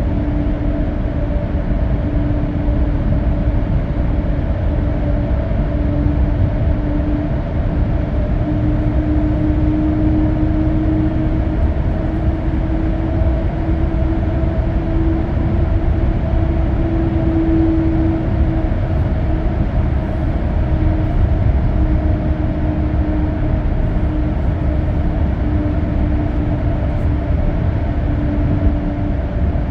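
Steady road noise from a car cruising on an expressway, heard from inside the cabin: a low rumble of tyres on pavement with a constant hum running through it.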